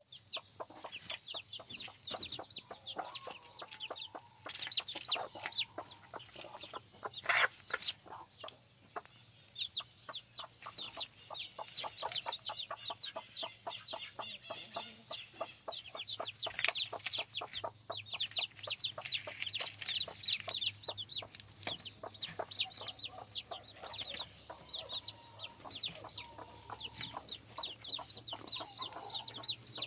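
Newly hatched chicks peeping continuously: many rapid, high, downward-falling cheeps. Lower clucks, typical of the brooding hen, come in now and then.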